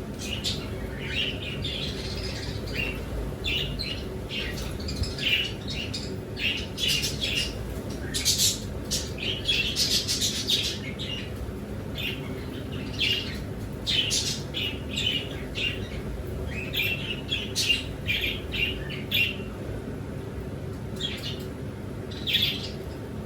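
A group of kept birds calling, many short chirps and calls following one another irregularly, over a low steady hum.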